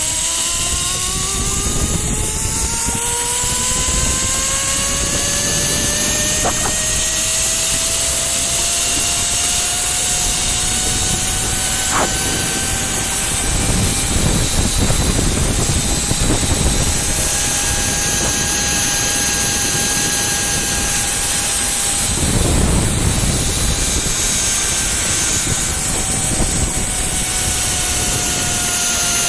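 Zipline trolley wheels running along the cable: a whine that rises in pitch over the first several seconds as the rider picks up speed, holds steady, then sinks a little near the end as the ride slows. Wind rushes and buffets the microphone throughout.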